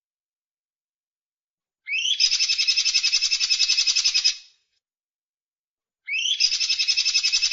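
Songbird song: a repeated phrase that opens with a quick rising note and runs into a fast, even, high trill of about ten notes a second, lasting about two and a half seconds. It comes about 2 s in and again about 6 s in, the second still going at the end.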